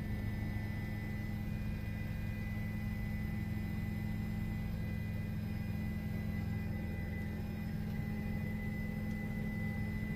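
Steady drone of a news helicopter's turbine and rotors heard inside the cabin, with a low hum and a thin high whine held at an even level.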